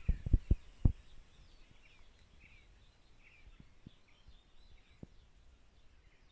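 A few low thumps on the microphone in the first second, then quiet outdoor background with faint, scattered small bird chirps.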